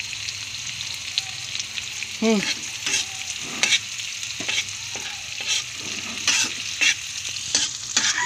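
Crickets frying in hot oil in a metal pan, sizzling steadily. From about two seconds in, a metal spatula stirs them, with repeated scrapes and knocks against the pan and a short squeaky note near the start of the stirring.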